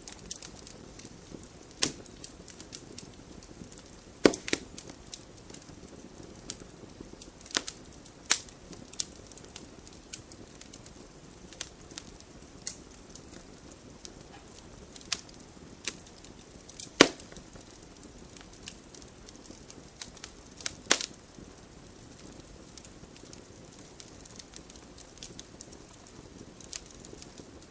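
Wood fire burning in a fireplace: a low steady hiss broken by irregular crackles and sharp pops, the loudest coming about 4, 8, 17 and 21 seconds in.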